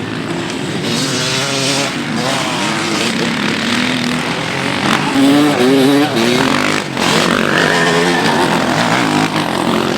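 Several motocross motorcycle engines revving hard, their pitches rising and falling and overlapping as the bikes ride past.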